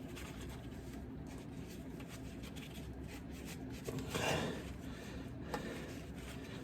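Faint handling of a plastic retainer clip being worked into place, with a few light clicks and a brief scrape about four seconds in, over a low steady hum.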